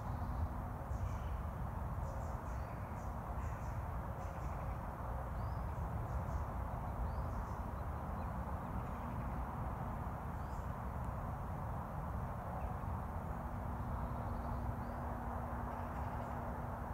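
Rural outdoor ambience: a steady low rumble and hiss, with small birds giving short high chirps and calls scattered throughout. A faint steady hum comes in about three-quarters of the way through.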